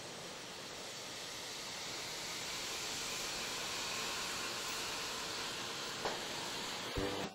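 A steady hiss that slowly grows louder, with a single click about six seconds in; music starts just before the end.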